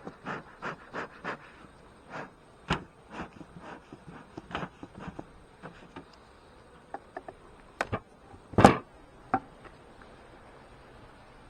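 Bee smoker's bellows being pumped, a run of short puffs about three a second, then scattered puffs and sharp clicks with one louder knock near the end.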